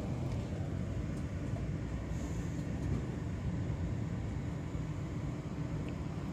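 Steady low rumble inside an executive-class passenger train carriage as the train rolls slowly along a station platform, pulling in to stop.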